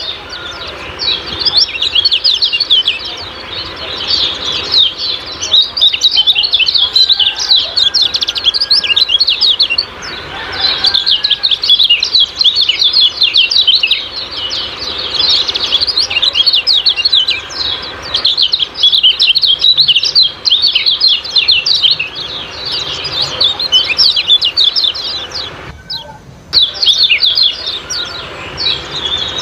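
Kecial kuning, a small Indonesian songbird, giving fast, high-pitched 'ciak-ciak' chirping calls in long dense runs, broken by a few short pauses.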